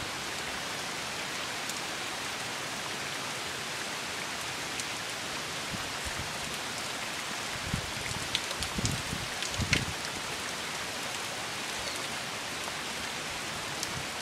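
Steady rain falling from a tropical storm, an even hiss, with a few low thumps about eight to ten seconds in.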